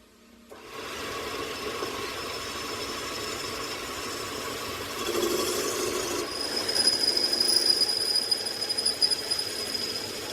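A machine starts running about half a second in: a steady, rattling mechanical noise. A steady high whine joins about six seconds in, and the sound surges irregularly for a few seconds after that.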